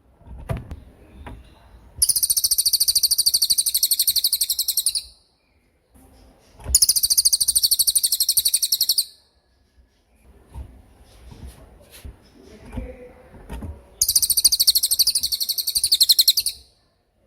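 Cililin songbird singing its rapid 'tembakan' trill: three loud, high-pitched bursts of quickly repeated notes, each two to three seconds long, with pauses between them.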